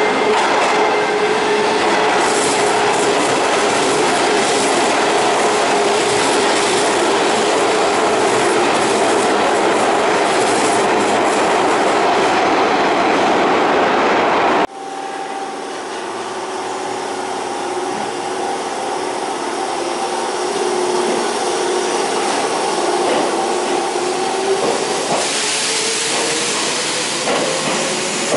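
Electric train running with a steady motor whine over loud running noise. About halfway through the sound cuts off abruptly to a quieter train whose motor whine rises in pitch as it accelerates.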